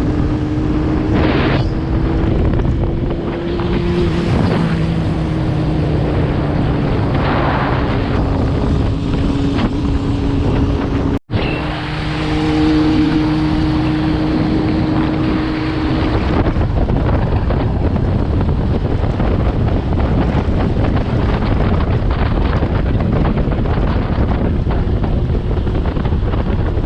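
Wind rumbling steadily on the microphone, with a steady engine hum underneath that stops about sixteen seconds in.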